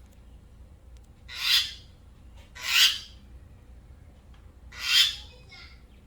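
Mynah bird giving three harsh, raspy squawks, each about half a second long, a second or two apart.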